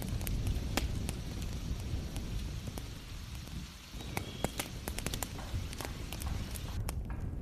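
Wood fire crackling, with frequent sharp pops and snaps over a steady rumble of heavy rain. The rumble dips briefly about halfway through.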